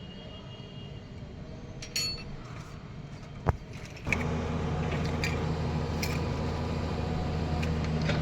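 A few sharp metallic clinks of tools or parts, then about halfway through a machine's motor starts up suddenly and runs with a steady low drone.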